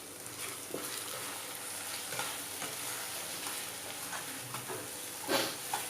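Chicken and capsicum sizzling in an open frying pan while a spatula stirs, with light scraping taps and one louder scrape near the end, as cornflour slurry is mixed in to thicken the dish.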